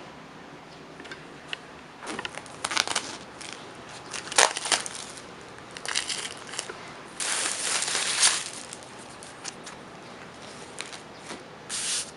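Irregular crinkling and crunching handling noises in several separate bursts, the longest lasting about a second.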